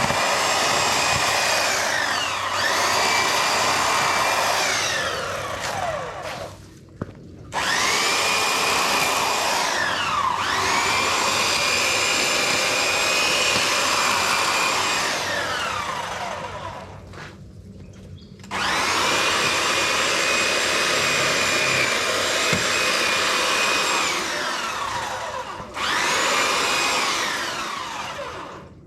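Electric power tool's motor run in repeated bursts: a high-pitched whine spins up to speed, holds steady for several seconds, then winds down as the trigger is released, about four times.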